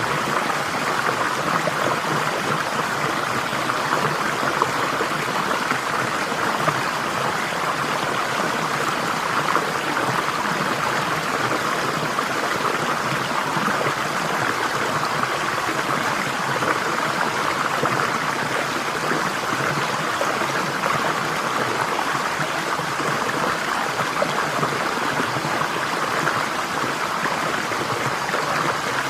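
Flowing stream water running steadily, a continuous rushing and babbling.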